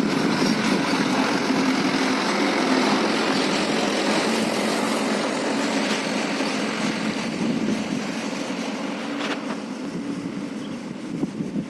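Loaded Mitsubishi Fuso truck's diesel engine and tyres passing on the road, the noise slowly fading as it moves away, with a brief louder swell near the end.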